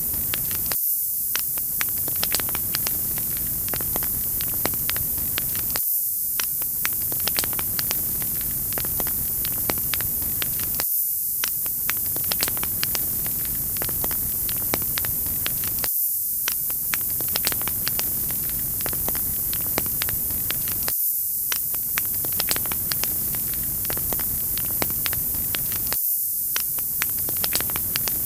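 Wood fire crackling, with frequent sharp pops and snaps over a steady hiss. The sound is a loop that repeats about every five seconds.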